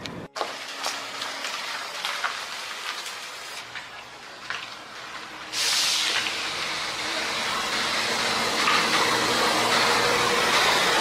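Scattered clicks and knocks of tyre-shop work. About five and a half seconds in, a loud steady hiss of compressed air starts suddenly and keeps running.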